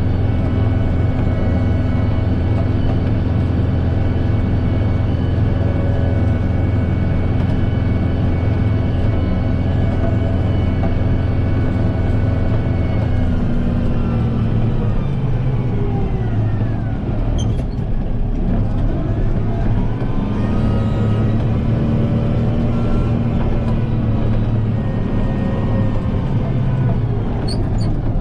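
Kubota M7060 tractor's four-cylinder diesel engine running steadily at working revs. About halfway through, the revs fall away, then climb back up a few seconds later.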